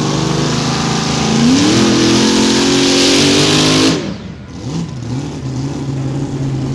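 Modified mini pulling tractor's engine revving up at full throttle down the track, its pitch climbing and then holding loud. About four seconds in the throttle is cut sharply and the engine drops to a lower running note with one brief blip: the driver backing out of the pull early.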